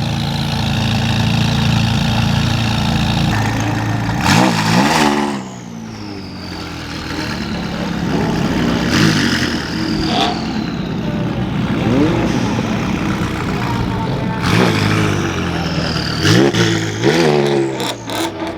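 Car engine idling, then revved in short blips several times, each a quick rise in pitch, some in close pairs.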